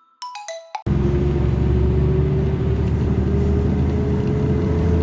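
A few falling mallet-instrument notes of background music, then about a second in an electric motor switches on abruptly and runs loudly and steadily, with a whine that rises slowly in pitch.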